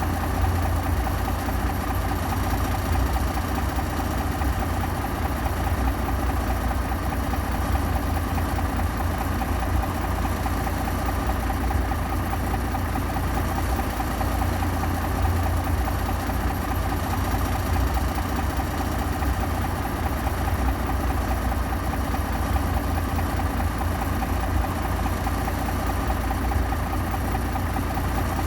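Heavy diesel engine running steadily with a deep, even hum, no revving or pauses.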